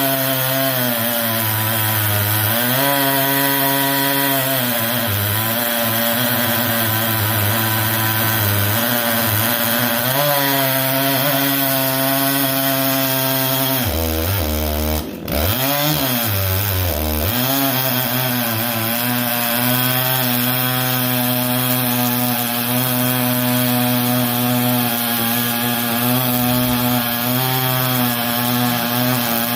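Two-stroke chainsaw running at high revs with its freshly sharpened chain cutting lightly into maple wood to take the burrs off the teeth. The engine pitch wavers as the chain bites, drops sharply about halfway through and then picks back up.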